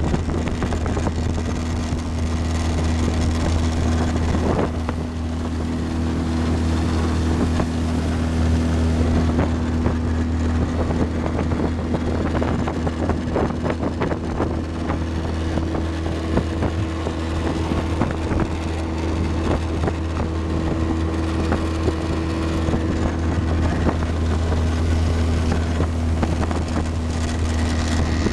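Motorboat engine running at a steady speed, a constant low drone with water rushing past the hull and wind buffeting the microphone.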